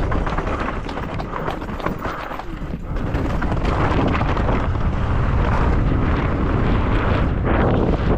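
Wind buffeting the microphone of a mountain bike ridden fast downhill, with a dense clatter and rumble from the bike and tyres over rough ground.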